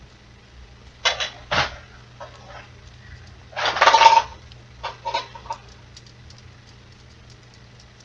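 Plastic LEGO Duplo pieces and figures being handled: a few short rattles, a louder scrape-and-clack around four seconds in, then a run of small light clicks.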